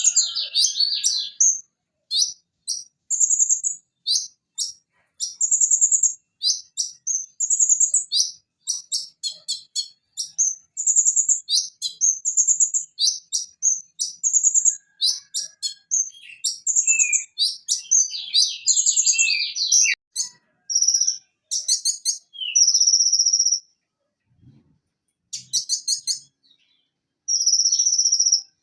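Kolibri ninja sunbird (Leptocoma sperata) singing a rapid, high-pitched string of sharp chirps and quick trills, with a short pause near the end followed by longer, buzzier high notes.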